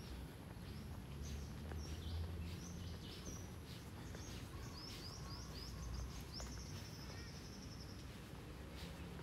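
Birds chirping: short high calls throughout, a quick run of repeated notes about midway and a longer high trill from about six to eight seconds, over a low steady rumble.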